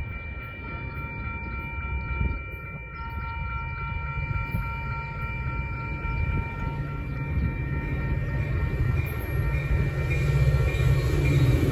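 Metra diesel commuter train approaching, its low rumble growing steadily louder as it nears. A few steady high tones sound over it and fade out near the end.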